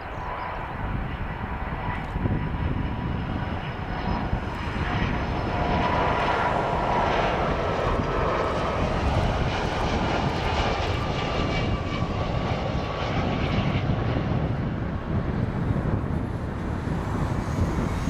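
Boeing 757-200 jet engines on landing approach passing by: a steady roar with a high whine, loudest about a third of the way in.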